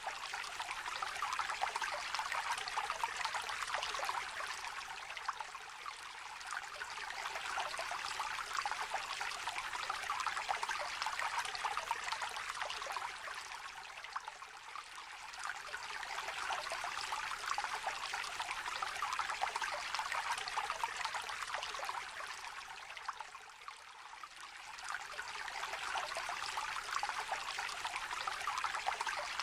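A shallow river trickling and babbling over stones, a steady splashing rush that eases off briefly three times, about every nine seconds.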